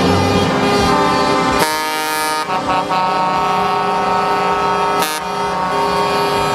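Truck air horns blaring continuously as trucks pass, several steady tones together, cut by a burst of hiss about a second and a half in and a shorter one near five seconds.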